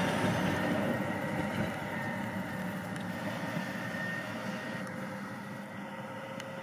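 Rhaetian Railway electric motor-coach train running away from the station, its rumble fading steadily as it pulls off into the distance.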